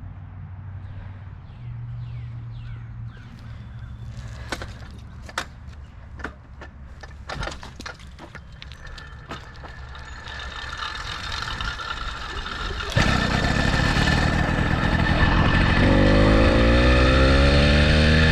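80cc motorbike engine: a low rumble with scattered clicks and knocks, then about 13 s in the engine suddenly runs much louder, and near the end it revs with a rising pitch.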